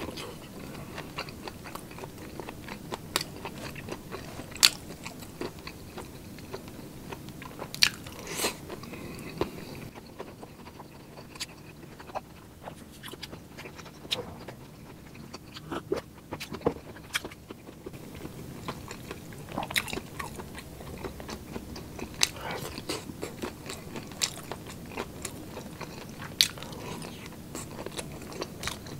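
Close-up eating sounds: a person chewing and biting food, with frequent short crunches scattered through. The crunches are sharpest and loudest a few times: about 4 s in, about 8 s in, about 20 s in and near the end.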